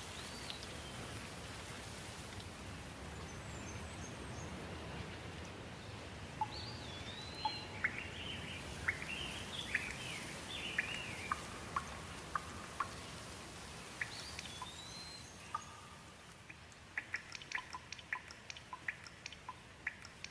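Wild birds singing over a steady rush of water. The birds give whistled phrases that rise and fall, busiest in the middle, then a quick run of short, sharp chirps near the end as the water noise grows fainter.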